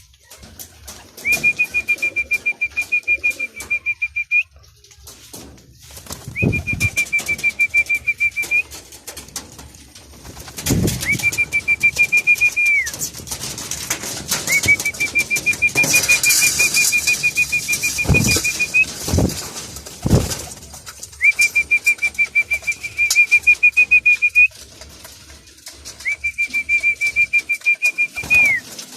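A trilling pea-type whistle blown in six long, steady blasts, the keeper's feeding call to his young racing pigeons. Wings flap and a few low thumps come between the blasts.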